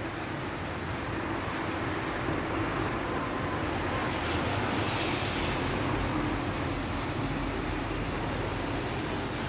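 Steady rain falling: a continuous even hiss that swells a little around the middle.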